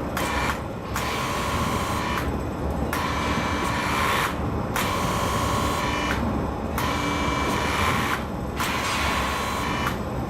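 Power tool running in about six bursts of a second or so each, with short pauses between, over a steady low rumble.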